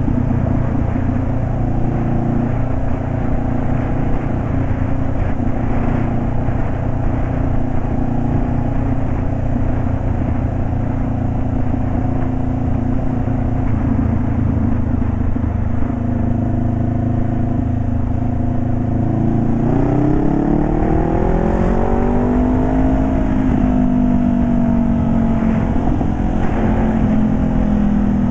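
Honda CBR500R's parallel-twin engine, warm, running through a de-baffled exhaust. It runs at a steady speed for about twenty seconds, then its pitch rises over a couple of seconds and slowly eases back.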